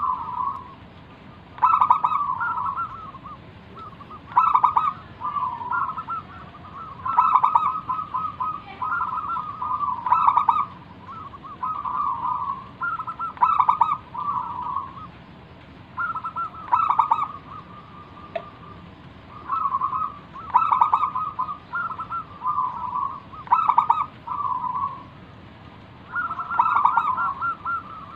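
Zebra dove (perkutut) cooing over and over: phrase after phrase of quick rolling coos with short gaps between them.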